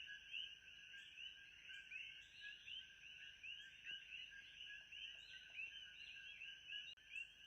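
Faint ambient chorus of many small animals: dense, overlapping short chirping calls repeating several times a second, over a steady thin high-pitched tone.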